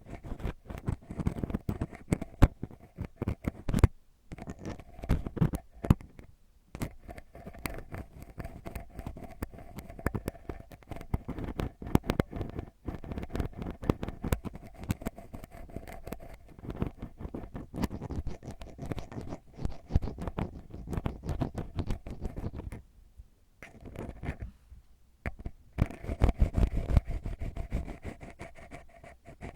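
ASMR ear cleaning: an ear pick scratching and scraping right at the microphone's ear, a dense run of crackling, rubbing strokes. It stops for a moment a few times, the longest pause about two seconds near the end.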